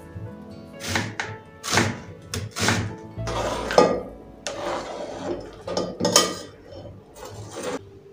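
Irregular knocks, thunks and short clatters of kitchenware being handled, over soft background music.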